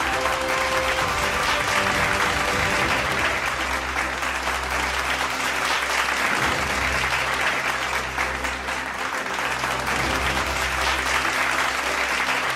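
Continuous applause over background music with steady low notes.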